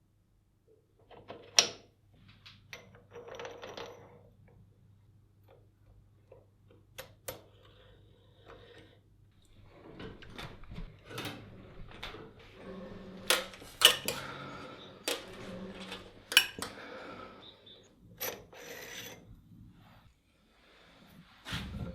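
Irregular clicks, knocks and scraping of small metal parts being handled and worked, with a few sharper clicks standing out.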